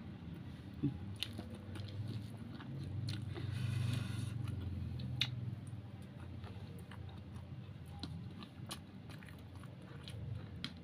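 A person chewing and biting a mouthful of food close to the microphone, with small crunches and wet mouth clicks, louder about three to five seconds in.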